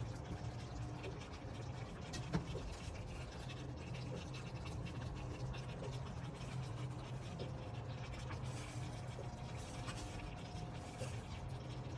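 Light scraping and rustling of kitchen utensils over a steady low hum, with one sharp knock about two seconds in.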